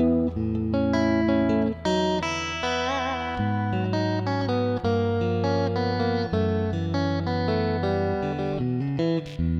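Electric guitar played through an amplifier, letting chords and single notes ring over one another. About three seconds in, one note is held with vibrato.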